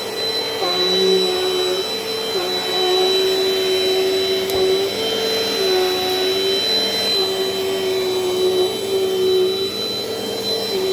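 Dirt Devil Dynamite Plus vacuum cleaner running steadily with a high motor whine, its pitch stepping up and down every second or two.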